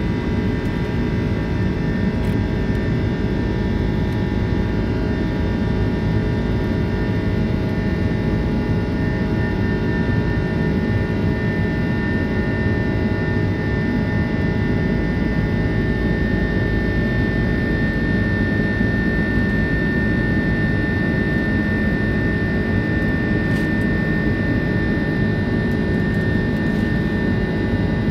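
Airbus A330 jet engines heard inside the passenger cabin, a loud steady roar with several steady whining fan tones running through it.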